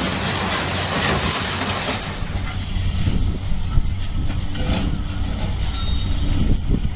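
Excavator's diesel engine running steadily, with a loud rushing noise that fades about two seconds in, then scattered knocks and clatter.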